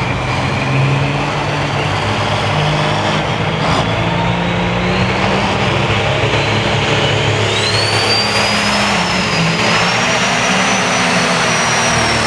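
Turbocharged diesel engine of a Limited Pro Stock pulling tractor running loud, with a turbocharger whistle that climbs in pitch through the second half and holds high.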